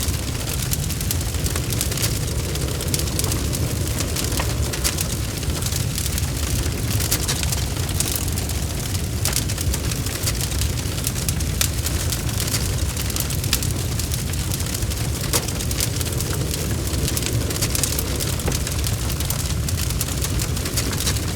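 Wood fire burning in a fireplace: logs crackling with many quick pops over a steady low rumble of the flames.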